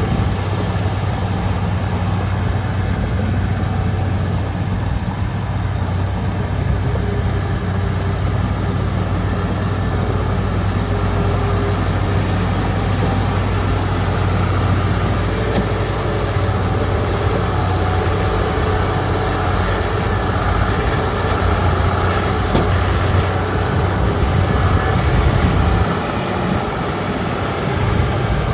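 Diesel engine of a Komatsu D31P crawler bulldozer running steadily with a strong low hum, growing a little louder near the end.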